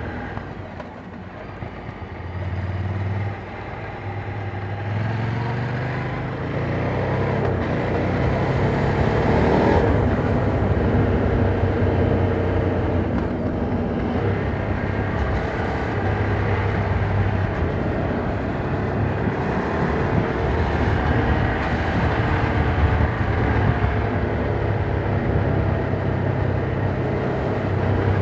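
Ducati Monster 797's air-cooled V-twin, with its stock exhaust, heard while riding. The engine runs softly off the throttle at first, then pulls with a rising engine note for several seconds before settling into steady cruising with small throttle changes, with wind noise underneath.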